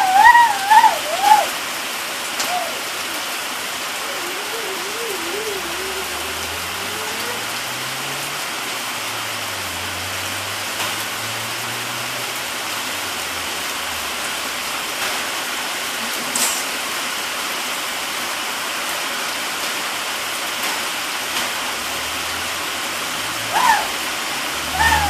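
Steady rain falling, an even rushing hiss throughout, with a young child's brief high-pitched voice at the start and again near the end.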